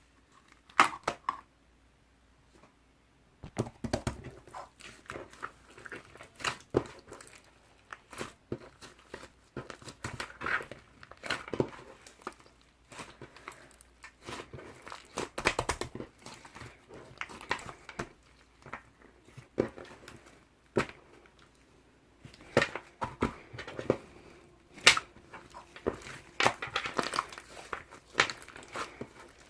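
Slime being worked by hand: irregular sticky clicks and small pops, a short burst about a second in, a pause, then dense clicking and popping as it is pressed and stretched.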